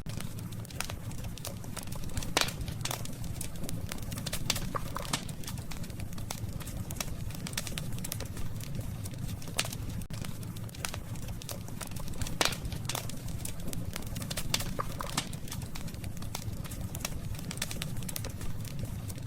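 Wood campfire crackling, with irregular sharp pops and snaps, the loudest about two and a half seconds in and again about twelve seconds in, over a steady low rumble from the burning fire.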